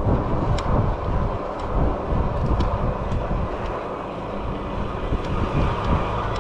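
Wind buffeting the microphone together with road noise while riding an e-bike, a steady fluttering rumble with a few faint ticks.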